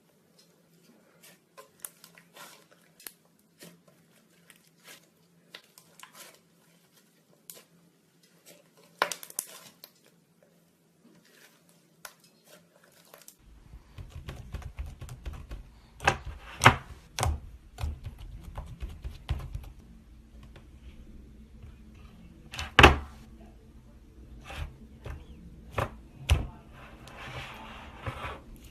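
Slime being squeezed and pulled by hand, making a run of sharp clicks and small pops. The clicks are sparse at first, then from about halfway they turn louder and denser over a low rumble.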